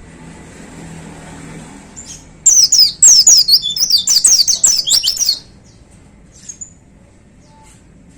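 A pleci (white-eye, Zosterops) singing a fast, loud burst of high, sharply falling chirps for about three seconds, starting about two and a half seconds in; before and after it, only a few faint chirps.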